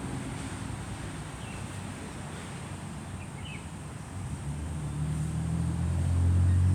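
A vehicle engine humming, growing steadily louder over the second half and peaking near the end, with a few short bird chirps.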